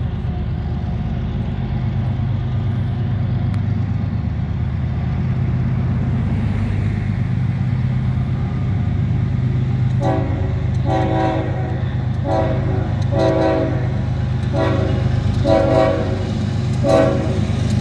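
Approaching CSX freight train: a steady low rumble from its diesel locomotives, and from about halfway a warning signal from the lead locomotive sounding in short, evenly spaced notes about once a second.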